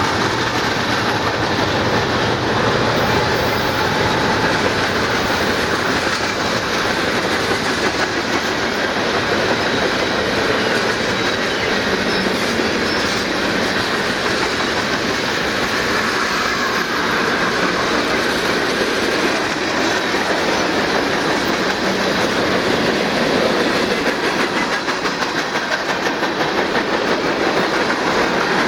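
Freight cars of a long manifest train rolling past at close range: a steady rumble of steel wheels on rail with rhythmic clickety-clack over the rail joints.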